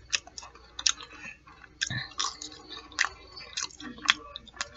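Close-up wet chewing of fried fish nuggets and fries with sauce: irregular mouth smacks and soft crunches, several a second.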